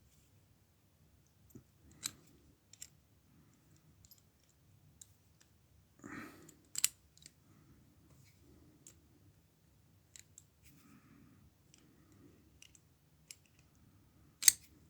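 Scattered small metallic clicks and taps from padlock parts being handled and fitted together while the cylinder is reassembled, with a louder clack about seven seconds in and a couple of sharp clicks near the end.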